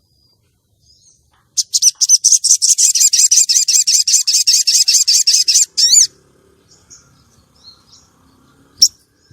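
Female sogon bird calling: a rapid trill of high repeated notes, about ten a second for about four seconds, ending in two downward-sweeping notes, then faint chirps and one sharp note near the end. This is the female's call used as a lure to draw and excite a male sogon.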